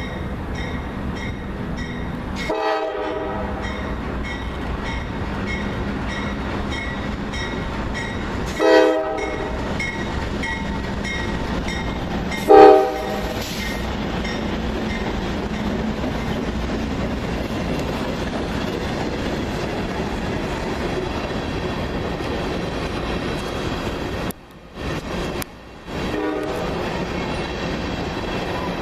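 Diesel freight train passing with the locomotives rumbling and the cars rolling, while the lead locomotive's air horn sounds three short blasts a few seconds apart, the third the loudest. A bell dings steadily in the first half, and the sound cuts out briefly twice near the end.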